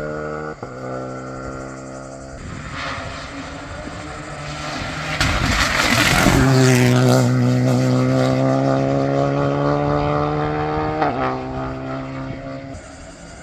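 Rally car engine at full throttle on a stage, with a quick gear change near the start; then a car approaches and passes, loudest around six seconds in, holding a steady high engine note with a gear change near eleven seconds before fading away.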